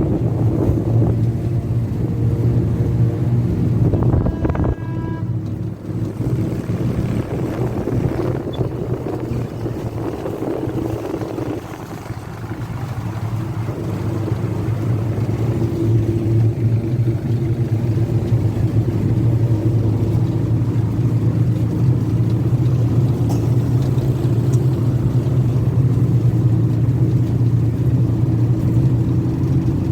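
Engine of a tourist road train running steadily, dropping in level around twelve seconds in and then building up again, with a brief high tone about four to five seconds in.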